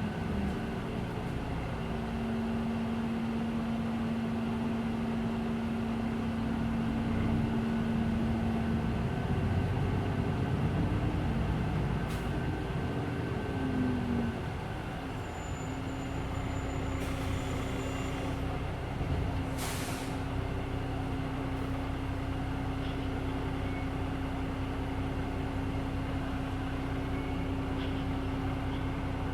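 Hino Blue Ribbon City Hybrid bus's diesel engine running with a steady drone, rising and falling in pitch briefly about ten seconds in before settling on a slightly higher steady note. A short hiss of air from the bus's air system about two-thirds through.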